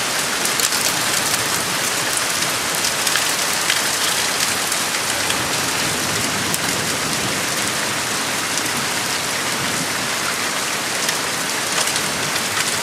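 Heavy rain pouring steadily, a dense hiss with many fine drop patters on surfaces.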